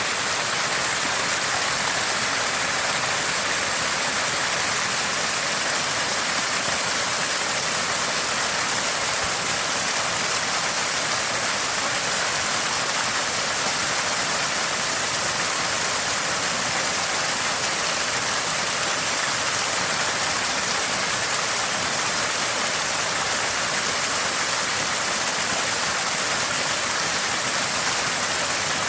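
Water gushing from a small spring, splashing and gurgling steadily.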